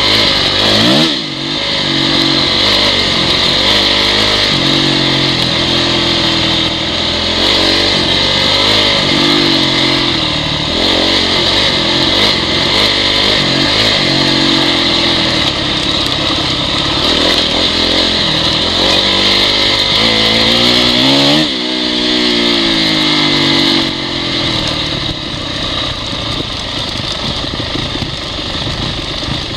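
Honda CRF dirt bike's four-stroke engine running, its revs rising and falling with the throttle. The revs drop briefly about a second in, and the engine revs up again just after 21 s.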